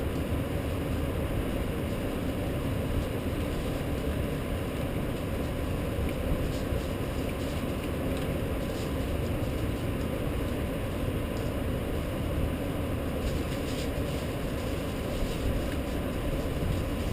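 Steady rumble of a rainstorm over the city, a low even noise of rain and distant city background, with a few faint ticks of drops now and then.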